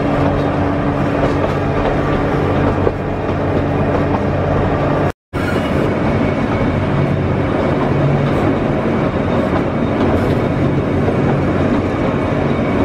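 Ikawa Line passenger train running, heard from an open window: a steady rumble of wheels on rail with a low drone underneath. The sound drops out to silence for a moment about five seconds in.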